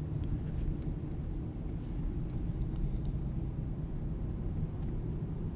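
Car driving along, a steady low rumble of engine and road noise, with a few faint ticks.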